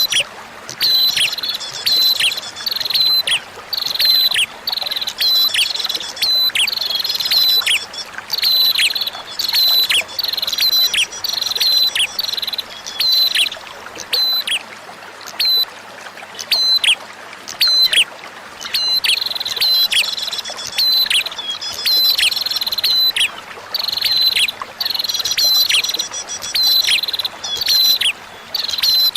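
A prinia (prenjak) calls over and over, each short high note dropping in a quick downward sweep, about one call a second in phrases with brief pauses. Beneath it runs a quieter steady trickle of flowing water.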